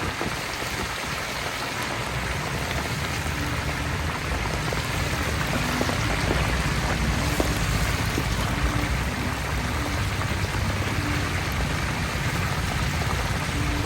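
Hot oil sizzling steadily as chicken livers deep-fry, growing a little louder after a few seconds.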